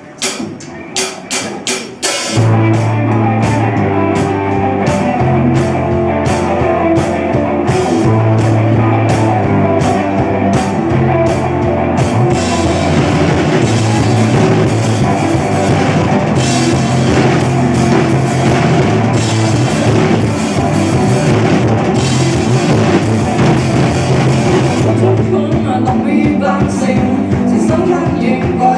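Rock band playing: a quick run of drum hits over the first two seconds, then the full band comes in with drum kit, bass and guitar and keeps a steady beat.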